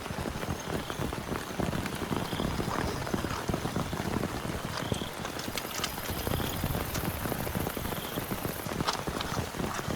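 Heavy rain falling steadily on a tent: a dense, even hiss of drops with a few sharper individual drop hits.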